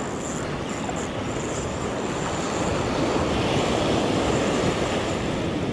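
Steady rushing of surf on the shore mixed with wind buffeting the microphone, swelling slightly midway.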